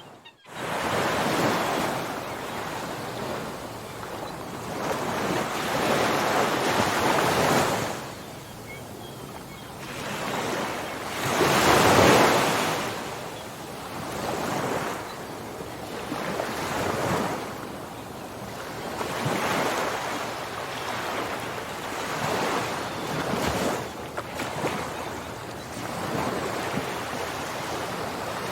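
Ocean waves breaking and washing on a shore: surf surging and ebbing every few seconds, the biggest wave about twelve seconds in. A brief gap in the sound at the very start.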